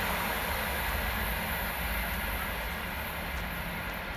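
Rajdhani Express passenger train receding after passing at speed, the running noise of its coaches on the rails fading steadily into the distance.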